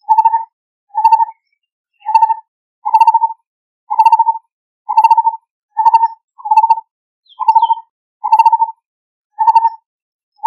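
Lineated barbet calling: a long run of short, low, hollow notes, about one a second, each with a quick pulsing texture.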